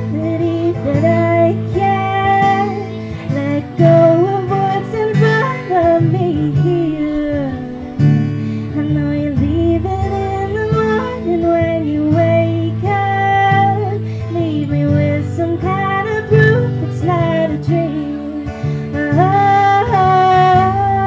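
Live acoustic guitar strummed, with a woman singing over it.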